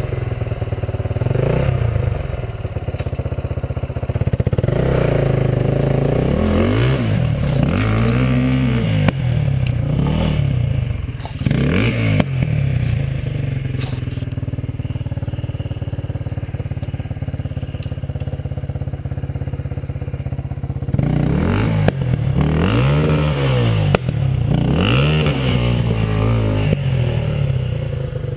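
Enduro dirt bike engine picking its way at low speed over rocky ground: a steady engine note broken by repeated short throttle blips, each rising and falling in pitch. The blips come in the first half and again near the end, with steadier running in between.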